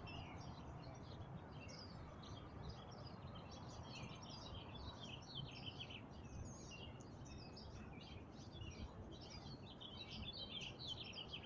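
Birds chirping and calling in quick, overlapping bursts, faint and continuous, over a steady low background noise.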